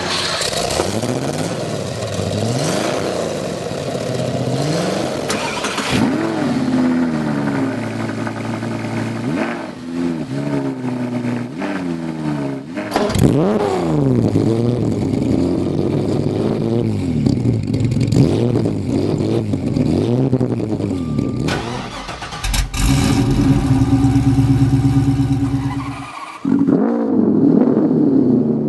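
Car engine being revved over and over, its pitch climbing and falling in quick blips, then held at a steady higher speed for a few seconds near the end before dropping and rising again.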